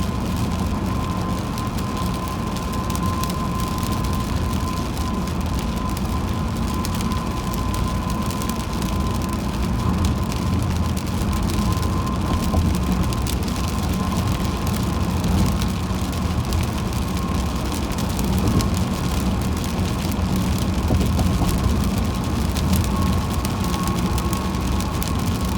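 Car driving on a wet highway in the rain: steady road and tyre rumble with rain hitting the car, and a thin steady tone above it.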